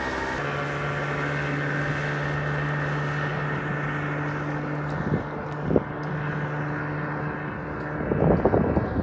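Johnson 25 outboard motor running steadily, its pitch dropping slightly just after the start. Near the end, gusts of wind buffet the microphone.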